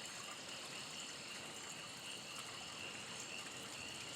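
Faint steady outdoor chorus of insects and frogs calling, a high thin drone that never lets up.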